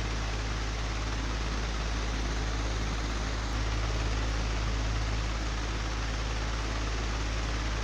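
Old, broken electric fan running with a steady whir over a deep low hum, swelling slightly about halfway through.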